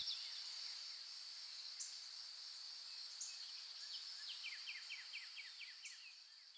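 Faint outdoor nature ambience: a steady high insect trill, joined about four and a half seconds in by a bird's quick run of short descending chirps, the whole fading out near the end.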